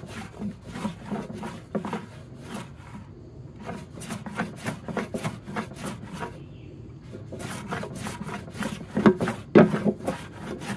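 Stanley No. 5 jack plane taking repeated strokes along a wooden board, its sharp iron shaving the wood with short rasping swishes. The strokes pause briefly about three seconds in and again around six seconds in, and the loudest come near the end.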